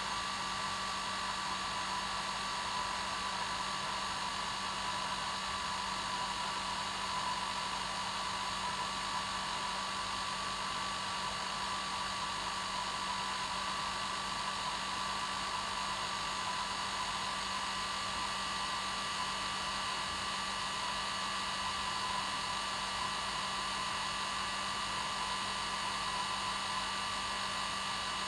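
Hair dryer running steadily on its normal setting: a constant airy rush with a whine and a low hum, unchanging throughout.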